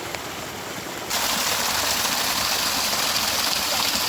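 Heavy rainstorm: a steady hiss of falling and running water. It jumps suddenly louder and brighter about a second in.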